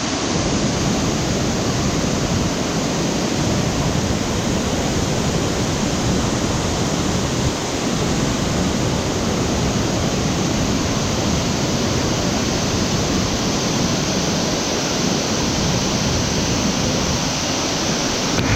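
Waterfall: a steady roar of falling and rushing water.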